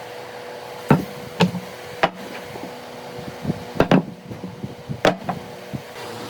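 Sharp knocks of a tool striking wood, about half a dozen irregular hits, two in quick succession near the middle, over a steady faint hum.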